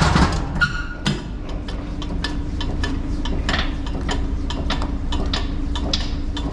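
Pallets being shifted with a pallet jack: irregular sharp clicks and knocks, a few a second, over a steady low hum.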